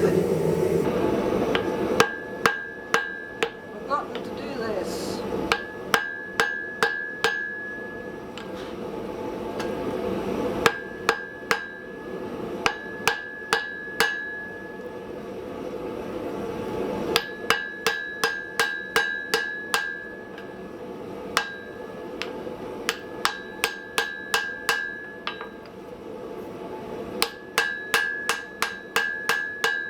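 A hand hammer striking steel on an anvil in quick bursts of several blows with short pauses between, each blow followed by a high ringing tone. A steady rushing noise runs underneath.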